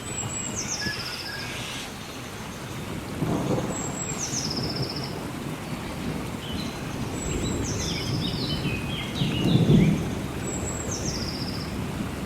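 Steady rain with low rolls of thunder, swelling about three seconds in and again near the end. Over it a songbird repeats a short, high song that falls in pitch, four times, about every three seconds.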